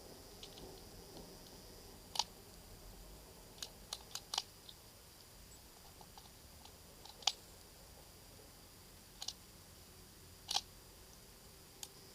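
A series of light, sharp clicks and small knocks, scattered irregularly with a quick cluster about four seconds in, typical of handling a .22 rifle and its magazine between shots.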